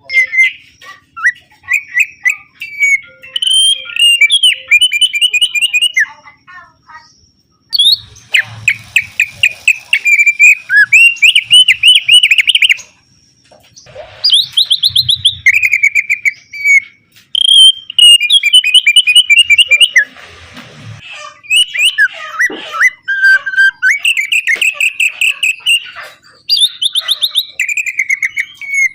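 Opior singing loudly in fast, chattering phrases of rapid trilled notes, broken by short pauses: a lure song used to prompt caged birds to sing.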